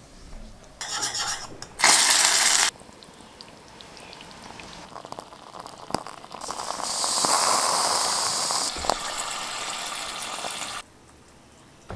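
Water running and pouring in short spells in a miniature kitchen: a brief loud gush about two seconds in, then a longer stream that fades down and stops near the end, with a few sharp clicks and knocks between.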